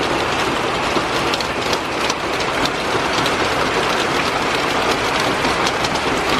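Heavy thunderstorm rain pouring down as a steady, loud rush, with many close drops ticking on a hard surface near the microphone.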